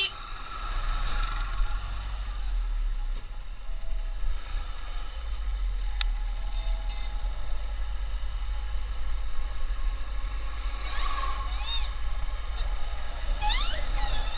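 Steady deep wind-and-road rumble of a motorcycle riding along a highway, with a sharp click about six seconds in and brief wavering high-pitched tones twice near the end.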